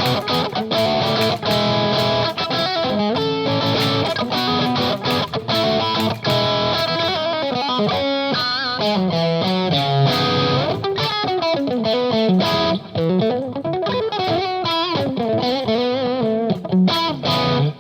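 Electric guitar played through an EarthQuaker Devices Palisades overdrive pedal set to voice 2, LED clipping, on gain A, with the bridge and middle single-coil pickups combined. The guitar plays without a break, with notes bent and slid in pitch in the second half.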